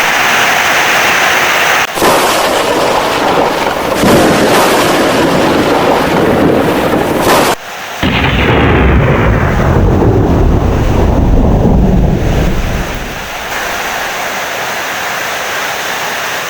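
Thunderstorm: heavy rain with rolling thunder. The sound changes abruptly a few times early on, then a long, deep thunder rumble starts about eight seconds in and fades away after about five seconds, leaving steady rain.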